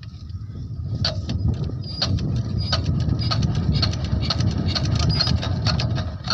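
Diesel engine of a water pump set starting up and running, growing louder over the first second and then running steadily with a sharp clattering knock.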